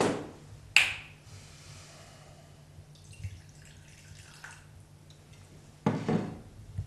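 A few sharp knocks and clinks, one ringing briefly about a second in, then a longer scraping clatter near the end, over a faint steady hum.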